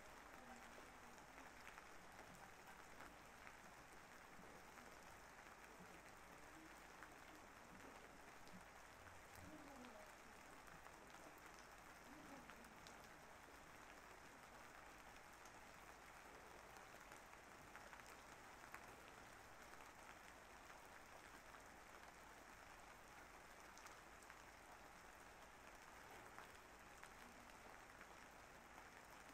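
Faint steady rain: an even patter with scattered drop ticks.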